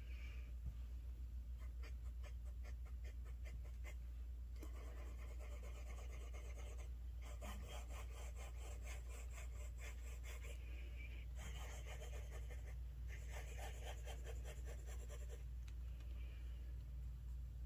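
Medium-nib fountain pen scratching across paper in four spells of writing strokes, after a few quiet seconds. A low steady hum lies underneath.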